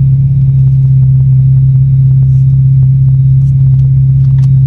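A loud, steady low mechanical hum holding one pitch, from the car or the car wash machinery around it.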